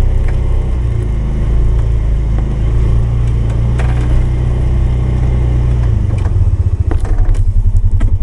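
Polaris 570's single-cylinder engine running steadily while the machine plows snow. About six seconds in, the engine note changes to a pulsing throb, with a few light knocks.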